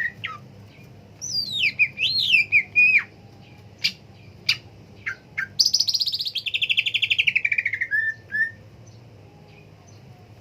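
Cucak ijo (green leafbird) singing: gliding whistled phrases, a few sharp chip notes, then a long rapid trill that falls steadily in pitch, ending in two short notes. The bird falls quiet for the last couple of seconds.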